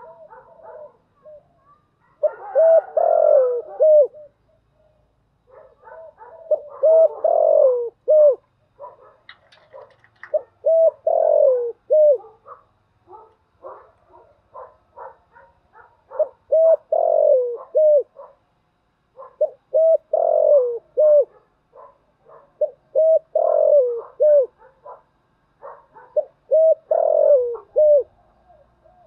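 Spotted dove cooing: a phrase of a few deep coos repeated about every three to four seconds, with fainter, quicker notes between the phrases.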